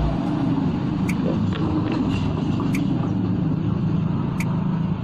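Steady low mechanical hum, with a short high chirp repeating about every second and a half.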